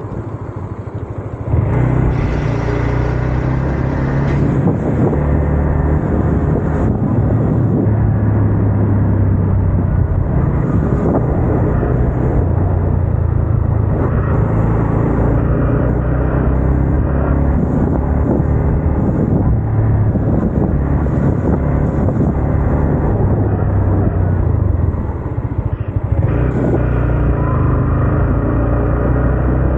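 Yamaha MT-15's single-cylinder 155 cc engine and exhaust running while riding. It picks up sharply about a second and a half in, with a brief drop in level around three-quarters of the way through, as with a throttle lift or gear change.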